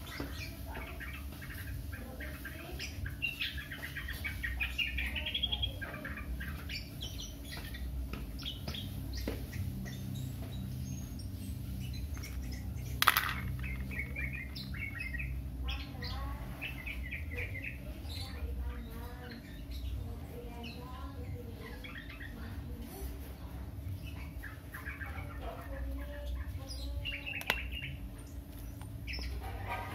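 Small birds chirping on and off over a steady low rumble. A sharp click comes about thirteen seconds in, and a smaller one near the end.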